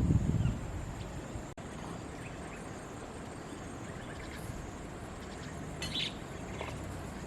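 Steady low background ambience with a few faint bird chirps, the clearest about six seconds in, and a dull thump at the very start.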